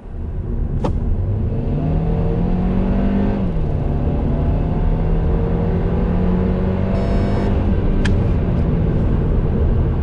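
Kia Ceed 1.5 T-GDi four-cylinder turbo petrol engine under full-throttle acceleration from 60 to 100 km/h, its pitch rising steadily. About three and a half seconds in, the pitch drops as the 7-speed dual-clutch gearbox shifts up, then it climbs again. Two short clicks come near the start and near the end.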